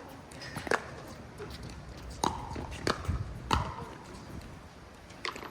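Pickleball rally: about five sharp, hollow pops of paddles striking the plastic ball, three of them in quick succession about two-thirds of a second apart, over wind rumbling on the microphone.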